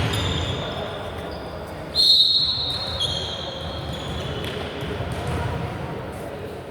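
A referee's whistle blows one long, shrill blast about two seconds in, dropping slightly in pitch a second later, over the murmur of voices in a sports hall.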